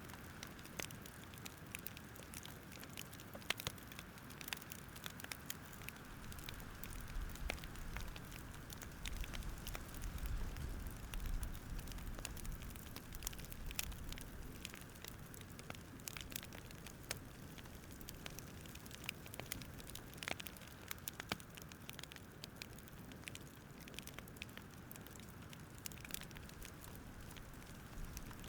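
Campfire crackling with irregular sharp pops and snaps over a soft steady hiss.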